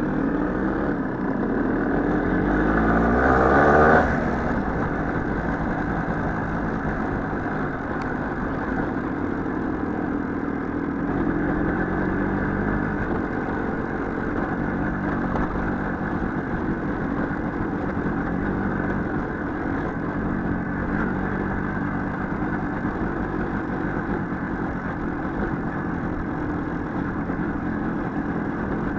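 Small motorcycle engine under way, revving up with a rising pitch over the first few seconds, then falling away sharply about four seconds in and running on steadily, the pitch shifting a little with the throttle.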